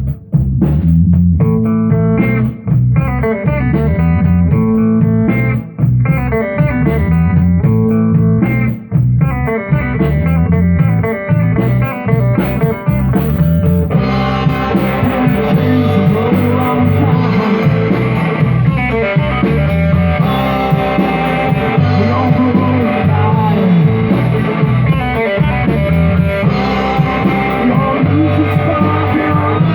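Rock band playing an instrumental passage live: guitar over a bass guitar line, with no singing. About halfway through, the sound fills out and turns much brighter.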